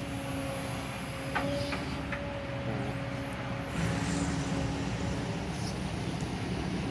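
Kobelco SK200 Super X excavator's diesel engine running steadily, with a steady whine over it, getting a little louder about four seconds in.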